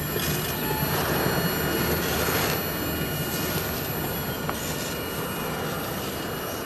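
Double-stack intermodal freight train's well cars rolling away over the rails: a steady wheel-on-rail rumble with thin, steady high squeals from the wheels, slowly fading as the train recedes.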